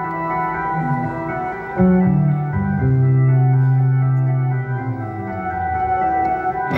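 Live rock band's keyboard playing sustained organ chords over deep held bass notes that step to a new pitch every second or two.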